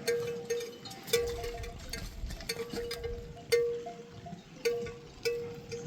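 A livestock bell clanking irregularly, as worn by grazing sheep or goats moving about. Each stroke rings on the same clear note and fades, every half second to a second or so.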